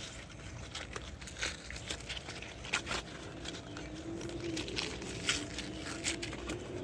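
Light crinkling and scattered clicks from hands going through the cut-open pleated paper element of a Porsche oil filter. A faint wavering hum comes in a little past halfway.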